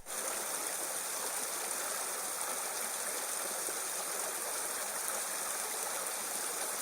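Small burn rushing steadily over little rapids and low waterfalls; the water noise comes in suddenly at the start and then holds even.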